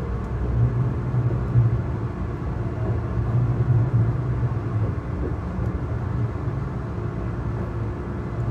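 Tobu N100 series Spacia X electric train running, a steady low rumble heard inside its front cabin, swelling a little now and then.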